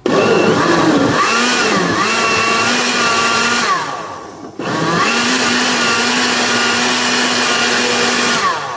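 Electric blender running in two spells, blending pineapple with water for juice. The motor's pitch sags as it bites into the load, then holds steady, and it pauses briefly about four seconds in before running again.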